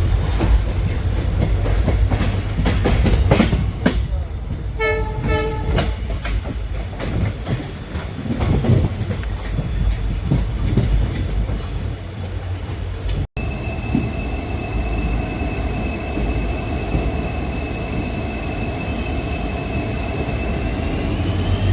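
Passenger train running, heard from inside the coach: a heavy rumble with the rattling and clicking of the wheels over the rail joints. After an abrupt cut about 13 seconds in, the rumble carries on under a steady high-pitched whine that rises in pitch near the end.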